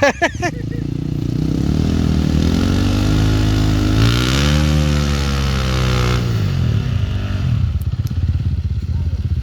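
Dirt bike engine running at low revs, then revving up over a couple of seconds, holding high, and easing back down to a low steady run. A short sharp clatter sounds at the very start.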